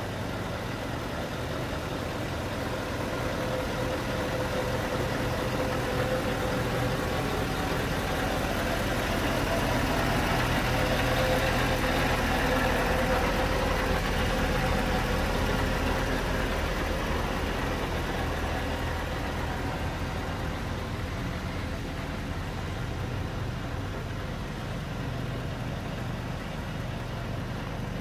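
Scania R520's 16-litre V8 diesel engine idling steadily, with a rushing noise that swells in the middle and fades again.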